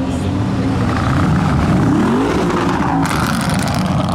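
Audi RS6 C7's twin-turbo V8 running loud through an aftermarket exhaust, revving up with the pitch rising about two seconds in. A burst of noise joins it about three seconds in.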